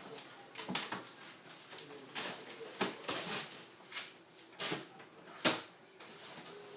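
Irregular knocks, clicks and short scuffs of items being handled and surfaces wiped while a refrigerator is cleaned out, about a dozen in all, the sharpest knock about five and a half seconds in.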